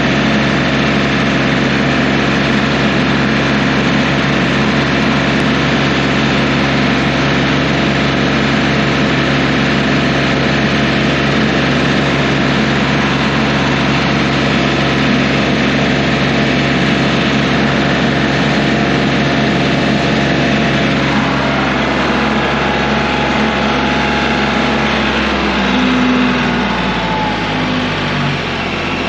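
Kioti CK3510 compact tractor's diesel engine running steadily; near the end its pitch drops as it slows.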